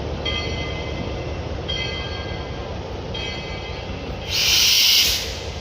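A shunting train's locomotive runs with a steady low rumble. About four seconds in there is a loud burst of air or steam hiss lasting under a second. Short stretches of high ringing tones come and go about every second and a half.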